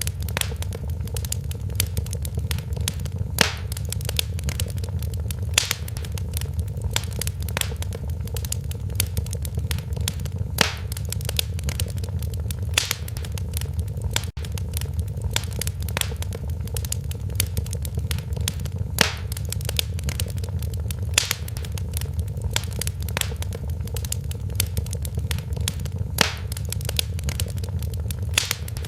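Wood fire crackling in a fireplace: a steady low rumble of flames under constant fine crackle, with louder single pops every couple of seconds.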